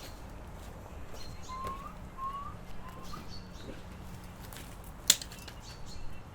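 Birds chirping in the background: three short rising whistles in quick succession between about one and a half and three seconds in, over faint high chirps. A single sharp click about five seconds in is the loudest sound.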